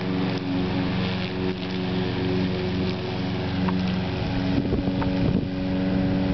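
Lawn mower engine running steadily at a constant pitch. Its note wavers briefly about five seconds in.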